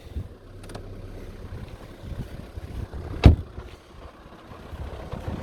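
Low steady hum of a Skoda Octavia 1.6 TDI four-cylinder diesel idling, with one loud sharp knock about three seconds in.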